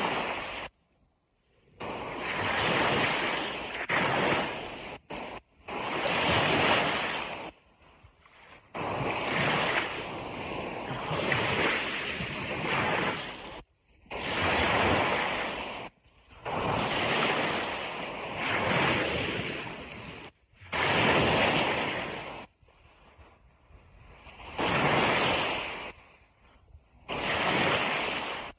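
Ocean surf washing on a beach: a hissing rush of water that comes in surges of a second or two, each cutting off abruptly into near silence before the next.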